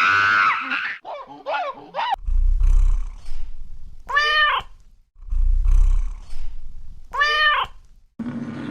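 Animal calls: wavering cries in the first two seconds, then the same short call that rises and falls in pitch, heard twice about three seconds apart, each time over a low rumble.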